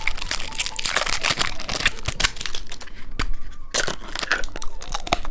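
Plastic candy wrapper being crinkled and torn open in a dense run of crackles, with a brief lull a little after the middle.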